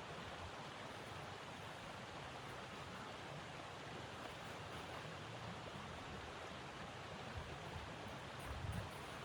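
Steady rushing wind of a snowstorm, with low gusty rumbles swelling near the end.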